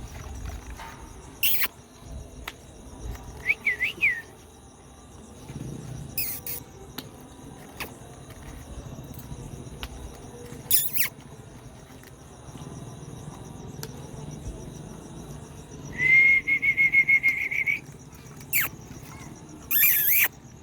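A series of short, high, bird-like chirps and sweeping whistles, a few seconds apart, over a faint steady cricket-like high hum; near the end comes a longer trilled whistle lasting about two seconds.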